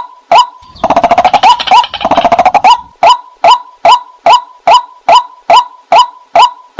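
White-breasted waterhen calling: a steady series of short rising notes, about two or three a second. About a second in, the series gives way for roughly two seconds to a rapid, dense chattering croak, then resumes.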